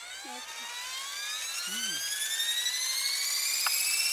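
A radio-controlled model helicopter spooling up: a whine that rises steadily in pitch and grows louder as the rotor speeds up.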